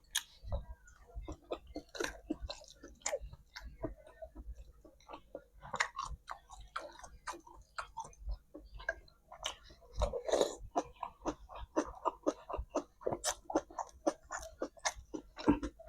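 A person chewing and eating bakso (meatball soup) close to the microphone: many short, irregular mouth sounds, busier around ten seconds in.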